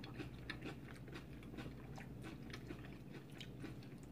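Close-up chewing of a mouthful of veggie nachos: soft, wet mouth sounds with irregular small crunches and clicks.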